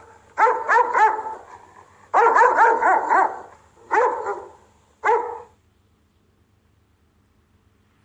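Rottweiler barking as a guard dog in quick clusters of barks, four bursts of one to five barks each, that stop a little past halfway through.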